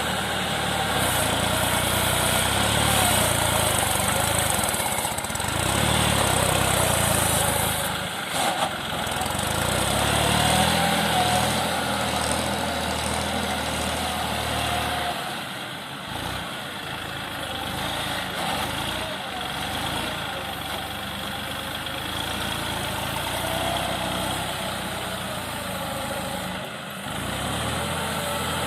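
Sonalika tractor's diesel engine running steadily, its low throb stronger through the first half and easing off from about halfway through.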